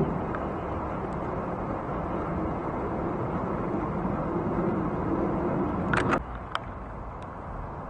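Steady low rumble of a jet airliner's engines, cutting off abruptly about six seconds in with a few sharp clicks.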